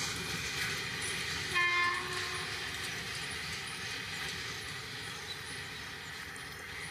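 A locomotive horn sounds once, a short blast just under a second long about a second and a half in, over the steady rumble of a moving freight train.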